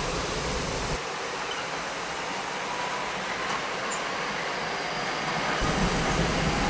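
SEPTA Regional Rail electric multiple-unit train pulling out of the station and running away down the track, a steady noise of wheels on rail.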